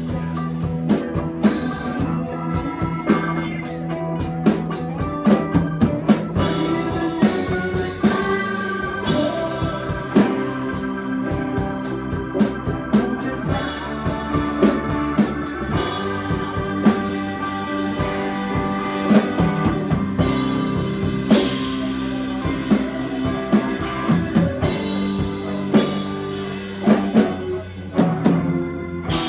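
Live band playing an instrumental passage: a drum kit beating steadily under long held chords.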